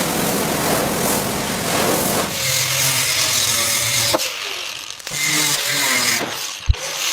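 Workshop tool noise: a rough, steady rubbing hiss, then a tool running in short pitched spells, with a couple of sharp knocks.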